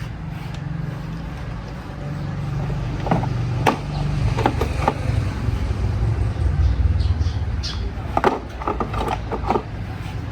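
A car engine running steadily, getting louder about two seconds in, with several sharp metallic clanks over it.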